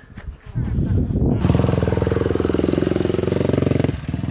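Dirt bike engine picking up about a second in and then running hard under throttle, with a brief dip near the end before it pulls again.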